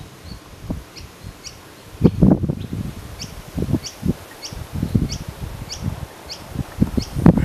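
Yellow-throated miners calling: a steady series of short, high chirps, about two a second, over louder intermittent low rumbles.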